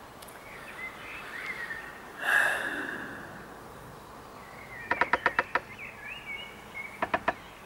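Wild birds calling: thin, gliding chirps with a short harsh burst about two seconds in, then a quick rattling series of about seven sharp notes a little after halfway, and a shorter rattle near the end.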